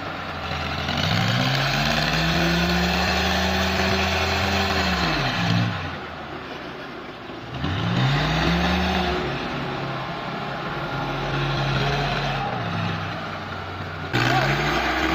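An engine revving up, holding at high speed for a few seconds, then dropping back, repeated about three times, with a hissing noise over it while it runs fast.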